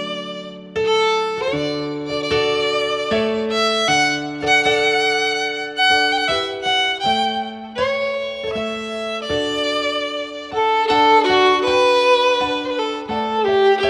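Instrumental Christmas carol with a violin carrying the melody over accompanying notes.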